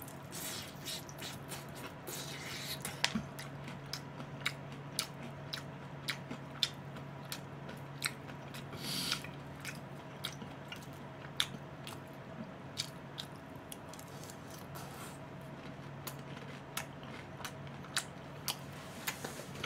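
A person biting and chewing crispy fried chicken, with irregular sharp crunches every second or so over a faint steady low hum.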